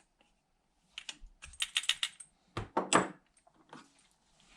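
Small metal clicks and taps of a hand tool working against a generator's carburetor, trying to free a stuck non-ferrous main jet. The clicks come in an irregular string, with the two sharpest near the middle.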